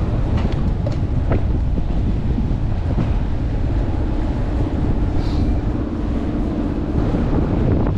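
Strong wind buffeting a chest-mounted camera's microphone on a moving bicycle, a continuous low rumble. A few faint clicks come in the first second or so, and a steady low hum joins about halfway through.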